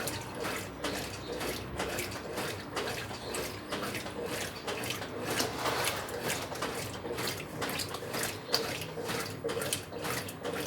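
Brastemp 9 kg washing machine in its wash cycle: water sloshing and splashing in quick, uneven surges in the tub, over a faint steady hum.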